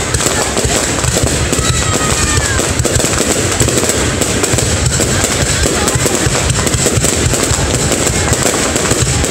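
Fireworks display: aerial shells bursting in quick succession, a continuous dense popping and crackling with no break.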